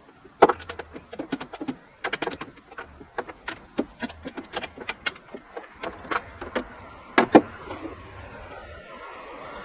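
Hand ratchet clicking in short quick runs while a nut is being worked loose.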